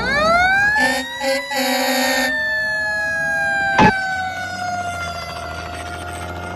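Fire engine siren winding up sharply, then slowly winding down, with three short horn blasts over it about a second in and a sharp click near the middle.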